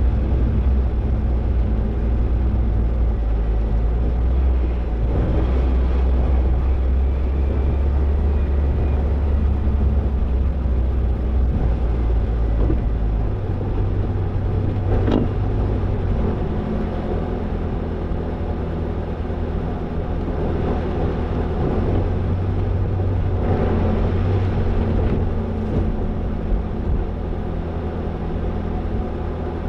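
Toyota Tercel 4WD wagon driving with its engine running steadily. About thirteen seconds in the engine note steps up in pitch, and a single sharp knock comes a couple of seconds later.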